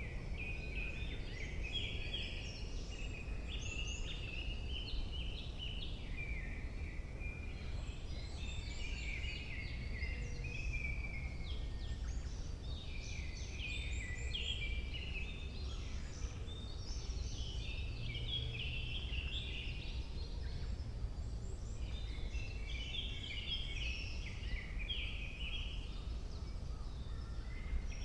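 Several small songbirds singing, with quick, repeated warbling and chirping phrases overlapping one another all through, over a steady low background rumble.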